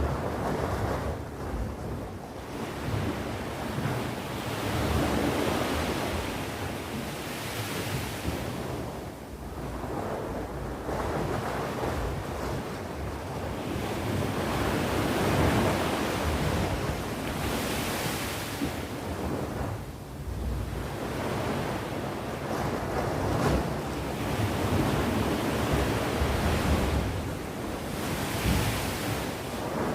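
Sea waves breaking and washing onto the shore. The surf swells and eases every several seconds.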